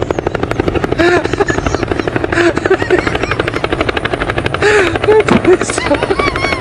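Helicopter rotor chopping in a rapid, steady beat, with short vocal sounds over it.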